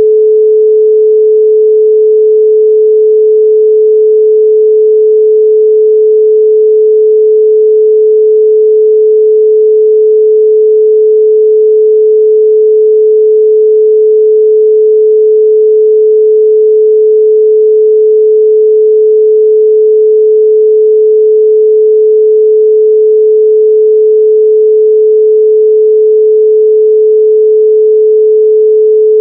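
A continuous 432 Hz pure sine tone: one loud, steady pitch with no overtones and no change.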